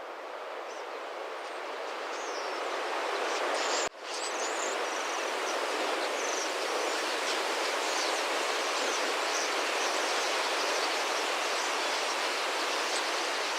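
Large flock of starlings: a steady rushing noise that swells over the first few seconds, with many short, high calls over it. There is a brief break about four seconds in.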